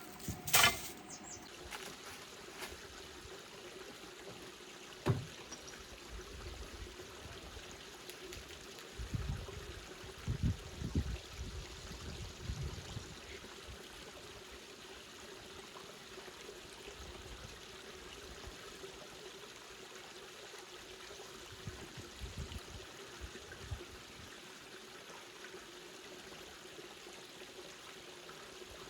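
Steady trickling, water-like sound with a faint steady hum, and a few soft low knocks about nine to thirteen seconds in.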